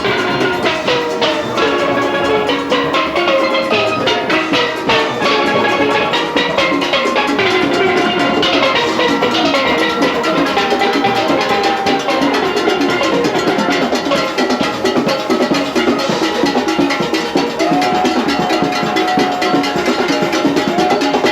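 Steel band playing a fast road march, many pans ringing out the melody over a steady drum and percussion beat.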